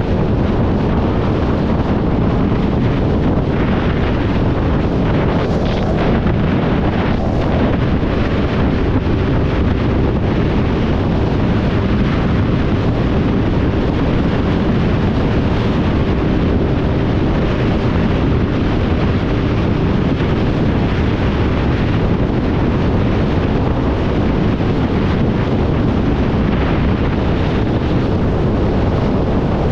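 Steady wind noise on the microphone of a moving motorcycle, with the engine and road noise running underneath.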